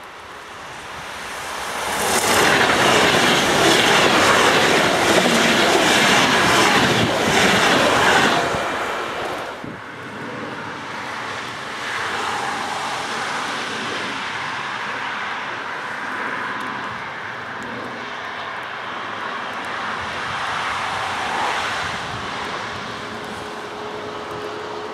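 ICE high-speed electric train passing close at speed: a loud rush of wheels and air that swells over the first couple of seconds, holds for about six seconds and then falls away. After an abrupt cut, a quieter steady rumble as another train approaches from far down the line.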